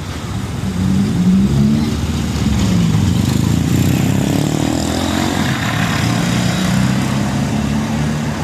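Large diesel truck passing on the road, its engine running with a low, steady drone over tyre and traffic noise, loudest a second or so in.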